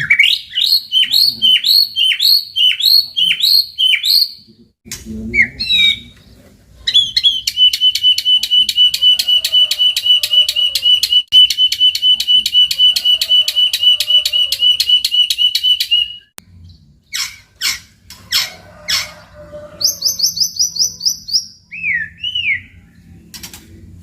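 White-rumped shama (murai batu) singing a varied song. It opens with a run of quick swooping whistled notes, then holds a long, fast, evenly repeated rattle of notes for about nine seconds, and ends with scattered sharp calls and sweeps.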